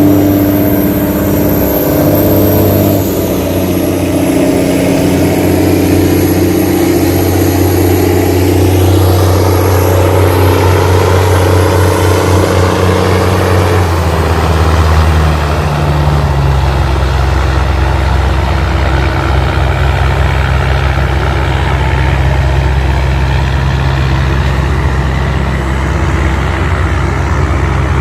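Tugboat's diesel engine running steadily under load while towing against the current; its note changes about halfway through and then holds steady.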